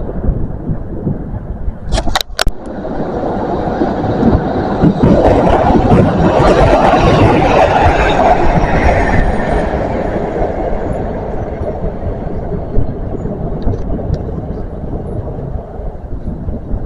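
A train passing close by, its rumble swelling to a peak about five to nine seconds in and then slowly fading. There are a couple of sharp clicks about two seconds in.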